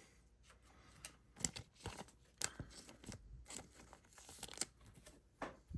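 Glossy trading cards being handled and slid over one another in a stack, giving a string of light scrapes and clicks at irregular intervals.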